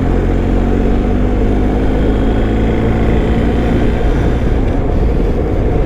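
BMW R1250 motorcycle's boxer-twin engine running steadily while riding, under a thick rush of wind and road noise.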